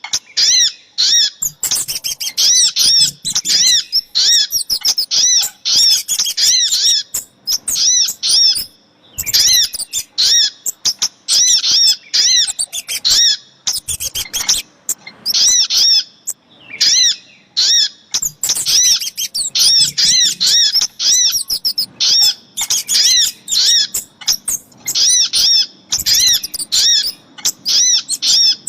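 Recorded calls of sogok ontong and kemade played as a bird lure: quick runs of short, high, rising-and-falling chirps repeated several times a second, with brief pauses between runs.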